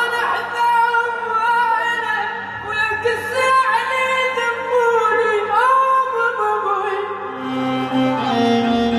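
Iraqi-style singing: a voice holds long, ornamented vowel notes that waver and slide in pitch, over steady sustained instrumental accompaniment that changes notes about seven seconds in.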